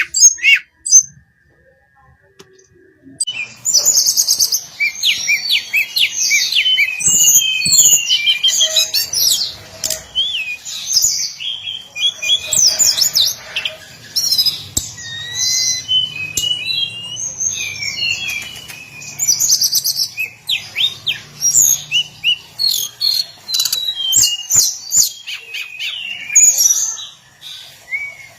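Hill blue-flycatcher singing a fast, varied run of high twittering notes, starting about three seconds in after a short pause, with a few light clicks among them.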